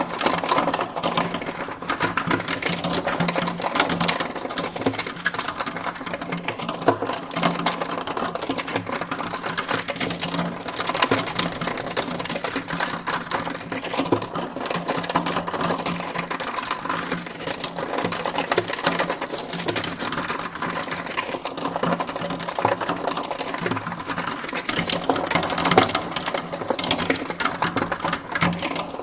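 Continuous rapid mechanical clattering over a steady low hum, swirling slowly from side to side in binaural panning.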